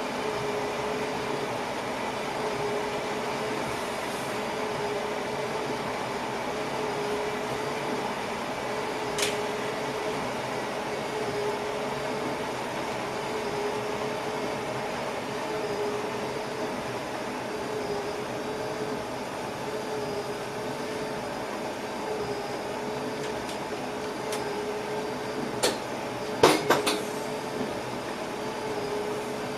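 Steady running noise of a passenger train heard inside the driver's cab, with a steady hum throughout. There is a single sharp click about nine seconds in, and a quick cluster of louder clacks near the end as the wheels run over the track.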